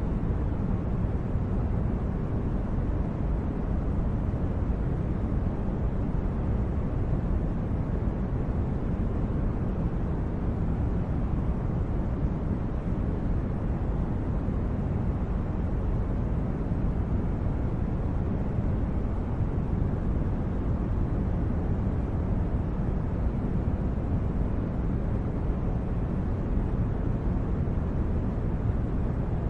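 Steady low rumbling noise, even and unchanging, with no distinct events: a continuous ambient sleep-noise bed like brown noise.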